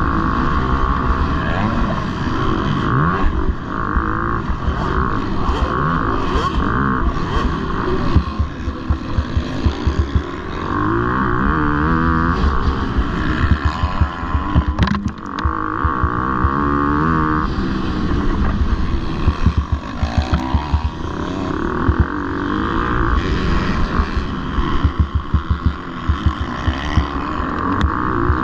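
Motocross bike engines racing, revving up and dropping off again and again as the throttle opens and closes through the corners and jumps.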